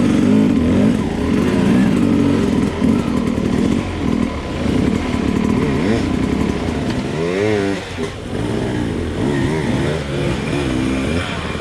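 Enduro dirt bike engine revving up and down as the throttle is opened and closed over and over. About seven seconds in, the pitch drops sharply and then climbs again.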